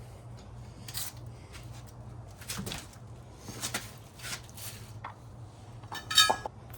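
Motorcycle wheel parts being handled by hand: scattered light clicks and rustles, then one louder, short ringing clink near the end.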